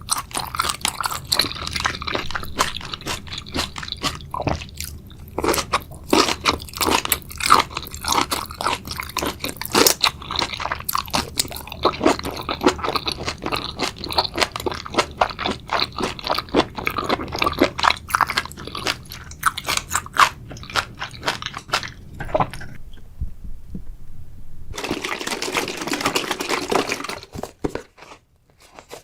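Close-miked ASMR eating of a spicy seafood boil: dense, rapid crunchy chewing and biting. It pauses about 22 seconds in, followed by a two-second stretch of steadier noise, then near quiet.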